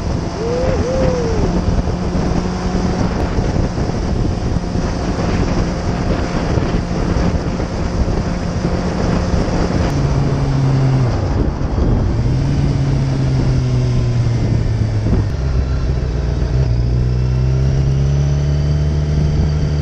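Suzuki GSX-R750 inline-four engine running at highway speed, with wind rushing over the microphone. From about ten seconds in, the engine note drops in several steps as the bike slows.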